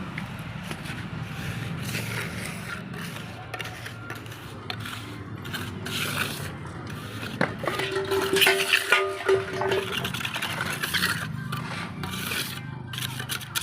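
Irregular scraping and rubbing, with a steady held tone for about two seconds around the middle.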